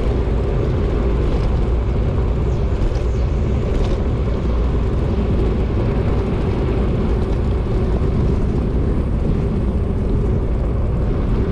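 Wind rushing over the microphone of a camera riding on a moving bicycle, a steady low rumble with no breaks.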